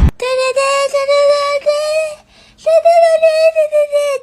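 A high-pitched voice singing short notes on nearly one pitch, with a brief gap a little past halfway.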